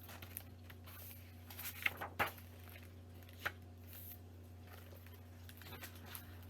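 Faint handling sounds, a few soft rustles and taps about two seconds in and once more a little later, over a steady low hum.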